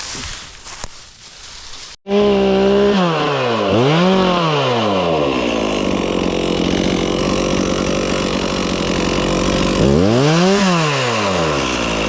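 A few seconds of rustling, then a chainsaw comes in abruptly at idle. It revs up and back down, is held at speed as it cuts through wood, and is revved up and down once more near the end.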